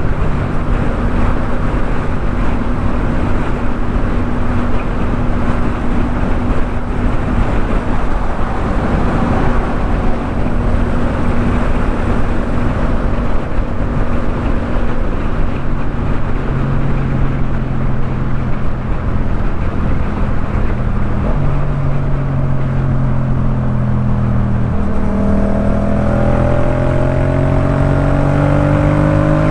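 Yamaha MT-07's parallel-twin engine running at road speed through a Jeskap K4 full exhaust, with a steady rush of wind noise. The engine holds a steady pitch for most of the time, then rises in pitch near the end as the bike accelerates.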